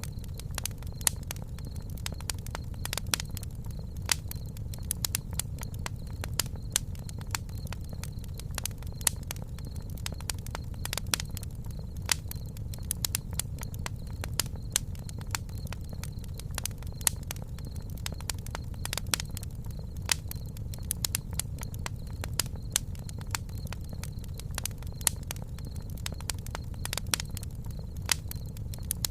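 Campfire burning: frequent sharp, irregular crackles and pops of burning wood over a steady low rumble of the fire.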